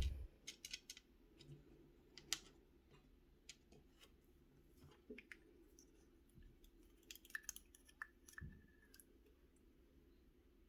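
Faint, scattered clicks and taps of small metal lock parts being handled as a Corbin Master Ring mortise cylinder is taken apart and its pins removed. There is a short run of clicks and a dull knock about eight seconds in.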